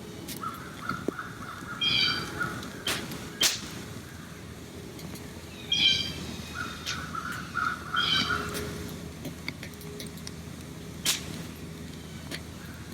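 Wild birds calling: three short harsh calls and two rapid runs of repeated notes, with a few sharp clicks between them over a steady outdoor background.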